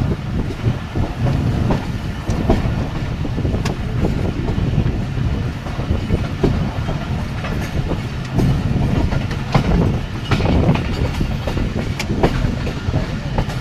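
Jaffar Express passenger train running at speed: a steady low rumble with wheels clicking and knocking over rail joints at uneven intervals.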